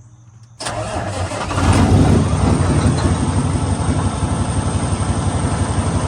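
Kenworth W900 semi truck's diesel engine cranked by the starter a little under a second in, catching and firing up about a second later, then settling into a steady idle with even exhaust pulses. The exhaust has just been reassembled with a new flex pipe and clamps, so the engine now runs out through the stacks.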